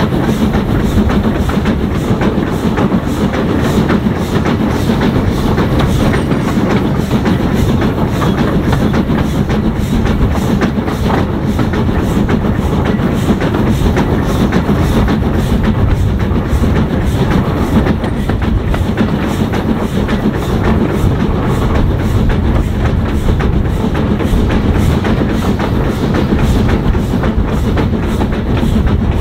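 A steam-hauled heritage train running steadily along the track, with the rumble and clickety-clack of the wheels on the rails holding an even level throughout.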